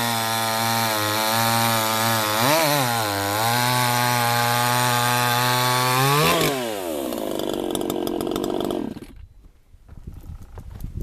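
PROYAMA 62cc two-stroke chainsaw running at high revs under load, its pitch dipping briefly and recovering about two and a half seconds in. The high-speed needle has been turned in half a turn, and the saw pulls harder without stalling. About six seconds in the revs fall away, the engine runs low for a couple of seconds, then stops.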